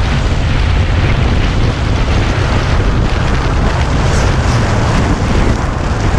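Steady wind buffeting a camera microphone on a moving motorcycle, over a low rumble.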